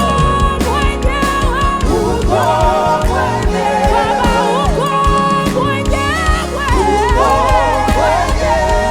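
Live gospel praise-and-worship music: singers with wavering, sliding melodic lines over drums and a steady bass.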